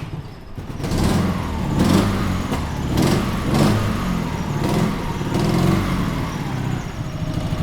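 Dnepr MT motorcycle's flat-twin engine running on LPG with the petrol shut off, blipped up in several short revs, then settling back to an even idle near the end.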